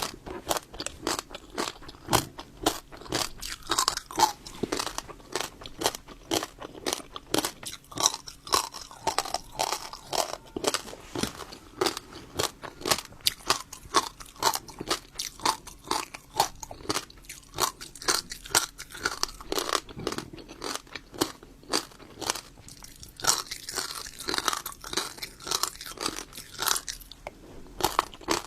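Close-miked crunching and chewing: a person eating something crunchy in quick, irregular bites and chews, many crisp crackles a second.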